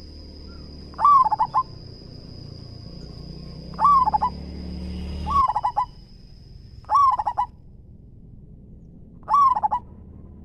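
Zebra dove (perkutut) cooing: five short phrases, each a rising-and-falling coo followed by a quick run of clipped notes, a few seconds apart.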